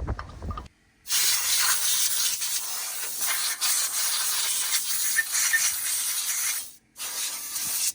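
Spray hissing in two bursts on the brake assembly: a long one of about six seconds starting about a second in, then a short one near the end.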